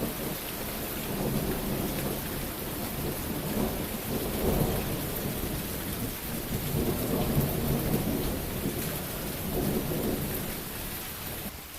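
Heavy rain falling steadily, with thunder rumbling overhead in several swells that rise and fade.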